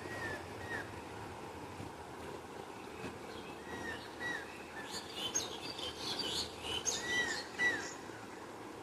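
Small birds chirping: short arched calls repeated every few seconds, with a busier burst of higher chirps from several birds between about five and eight seconds in, over a steady background hiss.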